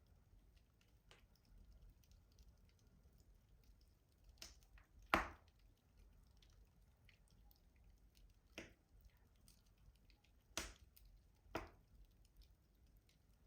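Wood fire crackling in a rustic stove: scattered sharp pops and faint ticks, with the loudest pop about five seconds in and a few smaller ones later.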